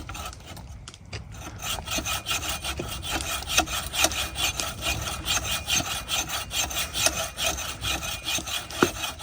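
Rapid, even back-and-forth rasping strokes, as in rubbing, scraping or filing by hand, starting about a second and a half in and keeping a steady rhythm.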